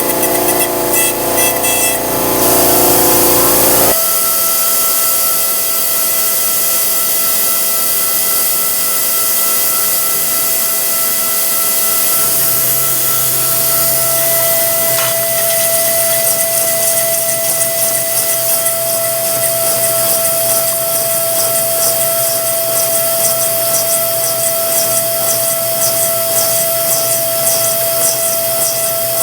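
Versamill 5X200 dental milling machine's spindle and tool grinding an e.max ceramic block: a steady high whine over a grinding hiss. The sound changes abruptly about four seconds in, and the whine grows stronger about midway.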